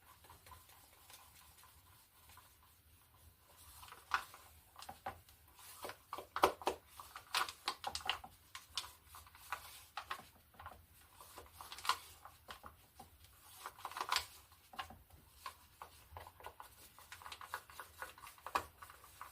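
Irregular light clicks and taps of a paint cup and stirring stick as thinned acrylic paint is poured and scraped out onto a canvas. The tapping starts a few seconds in.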